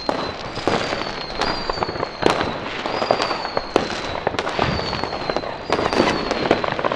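Many New Year's fireworks going off around the town: a dense, irregular mix of sharp bangs, firecracker reports and crackle. Through it a high tone falls slightly and repeats a little faster than once a second.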